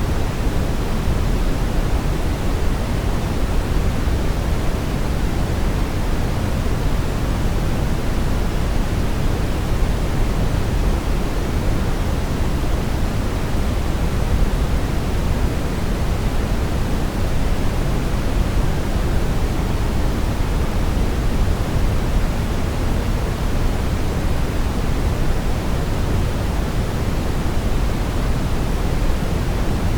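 Brown noise: a steady, even rushing hiss weighted heavily toward the low end, with no change or events.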